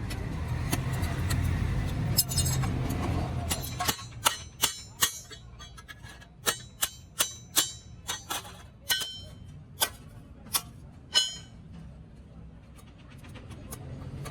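About a dozen sharp metallic strikes at an uneven pace, several leaving a short ringing tone: metal being hammered during hand fabrication of an exhaust silencer. A steady low rumble comes before the strikes and fades as they begin.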